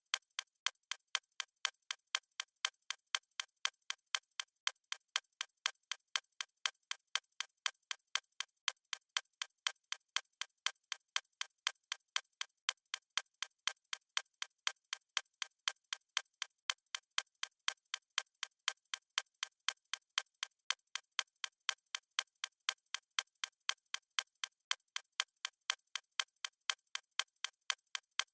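Fast, steady stopwatch ticking sound effect: sharp, evenly spaced clock-like ticks, about four a second.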